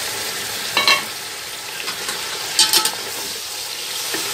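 Chopped tomatoes sizzling in hot oil in a metal pot, a steady hiss, as a wooden spatula stirs them. The spatula clinks against the pot twice, about a second in and again near the middle, with a brief metallic ring.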